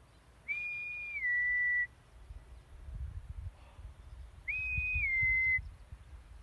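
A two-note recall whistle to a barn owl, sounded twice: a clear high note stepping down to a slightly lower one, each call about a second and a half long. Low rumbling noise fills the gap between the calls.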